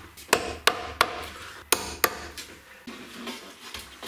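Sharp wooden knocks, about five in the first two seconds, as a freshly grille-clothed baffle board is knocked into place inside a Fender guitar amp cabinet.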